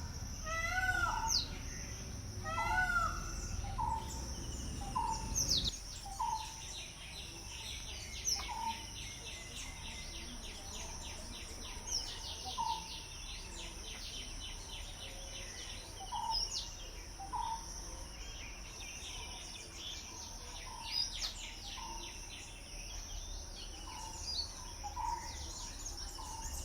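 Morning birdsong: one bird repeats a short call every second or two, while another gives rapid high trills, over a steady high insect hum. A low rumble underneath stops about six seconds in.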